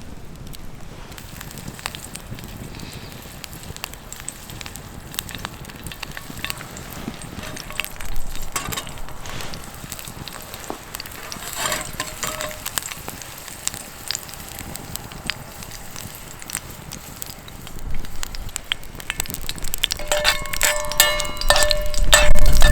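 Wood fire crackling and sizzling with scattered sharp pops. Near the end a run of bright, ringing clinks comes in.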